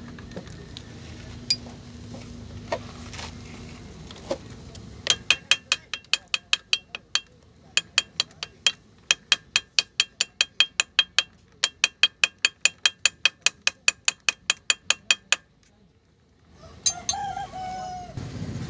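A rapid run of sharp, evenly spaced clicks, about three a second, lasting some ten seconds, then a rooster crowing near the end. A low hum runs under the first few seconds.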